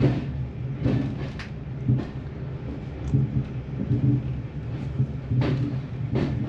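Heritage train running along the line, a steady low rumble and hum with sharp clacks and knocks of the carriage, a cluster about a second in and two more near the end.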